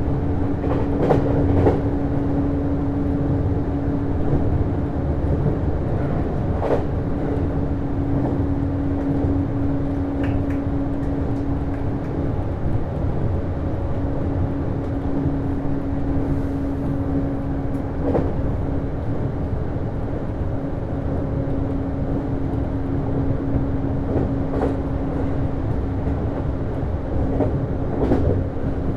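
JR East HB-E210 series hybrid railcar running at speed, heard from inside the car: steady rolling noise with a constant hum, and the wheels clicking over rail joints a handful of times.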